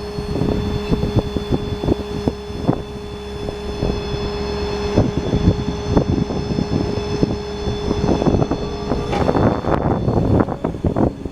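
Truck-mounted crane being run from its variable-speed toggle, with a steady whine and many irregular clunks and knocks as it moves. The whine stops about nine seconds in.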